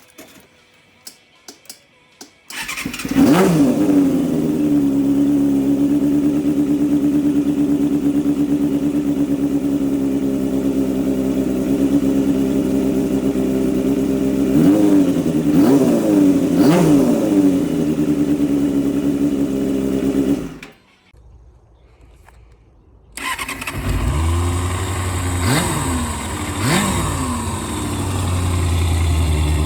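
Kawasaki Balius II 250cc inline-four motorcycle engine started, settling into a steady idle, then blipped three times in quick succession. After a short break the engine runs again with a deeper exhaust note and is blipped several more times, comparing two exhausts, one of them a Pretty Racing short pipe.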